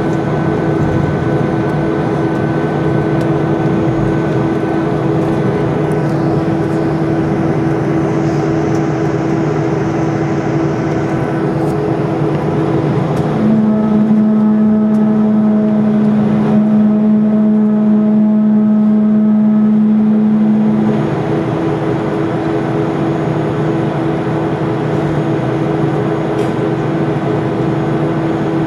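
Boeing 747 jet engines running at a steady low power, a constant hum carrying several held tones. A stronger low tone joins about halfway through, lasts roughly seven seconds, then drops away.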